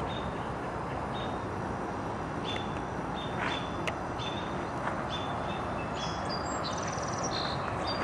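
Birds chirping in short repeated calls, with a brief rapid trill near the end, over a steady hiss of distant traffic.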